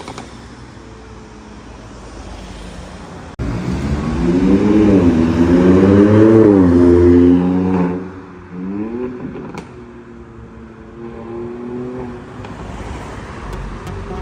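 Mercedes-AMG SLC 43's twin-turbo V6 through an aftermarket sport mid-pipe exhaust, revving. A steady lower note comes first. From about four seconds in, a loud rev climbs and falls back over about four seconds. A shorter blip follows, then the note settles steady again.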